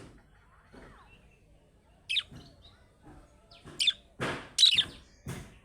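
Budgerigar giving short, sharp high chirps: one about two seconds in, another just before four seconds, and a quick run of them near the end, with short noisy rustling bursts in between.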